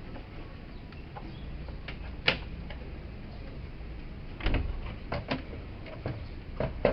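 A handful of sharp clicks and knocks over a low hum, the loudest about two seconds in and several more in the second half: parts and tools being handled while a washing machine is taken apart and reassembled.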